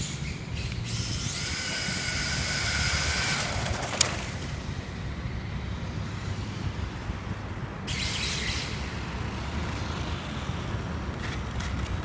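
Electric motor of a front-wheel-drive RC drag car on a Tamiya M-05 chassis whining as the car accelerates on a drag pull, rising slightly for about two seconds and ending in a sharp click about four seconds in. A shorter burst of whine comes near eight seconds in, over a steady low rumble.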